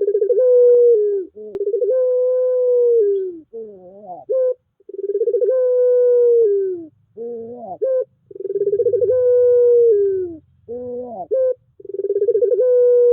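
Puter pelung turtle dove cooing: long, drawn-out coos held for about one and a half to two seconds, each wavering and falling at the end, alternating with short warbling notes, repeated over and over.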